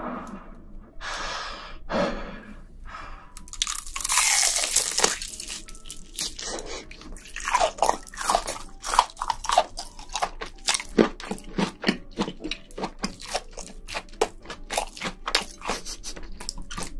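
Close-miked chewing of crunchy shrimp: a few noisy bites in the first seconds, then rapid crisp crunches a few times a second.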